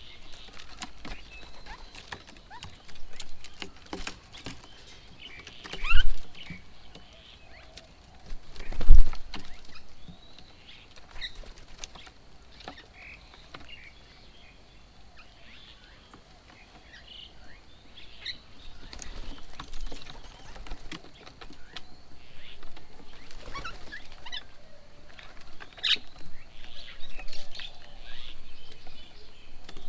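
Assorted birds chirping and calling with short, scattered notes, at a bird table. Two loud thumps come about six and nine seconds in.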